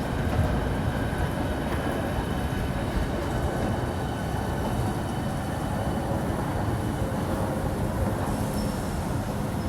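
Electric train at the station platform, a steady low rumble with faint steady whining tones above it.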